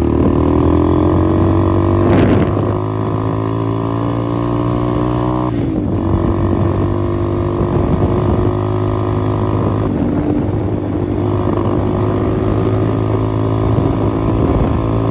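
A 125cc pit bike's single-cylinder four-stroke engine running under way. The pitch climbs over the first couple of seconds, then drops sharply about five and a half seconds in and dips again around ten seconds, as with gear changes. A brief clunk comes about two seconds in.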